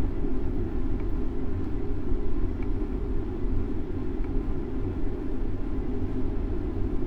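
Steady low rumble of moving city traffic and wind buffeting a bicycle-mounted action camera's microphone while riding, the loudness wavering constantly with no distinct events.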